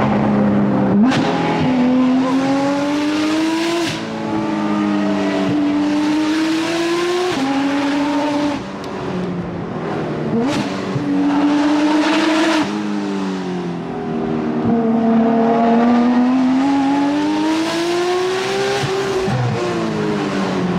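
Porsche 991.2 GT3 RS's naturally aspirated flat-six, with Dundon street headers and Crack Pipe exhaust, driven hard. It climbs in pitch under full throttle, with sharp drops at several quick upshifts, and the pitch slides down in places as it slows for corners.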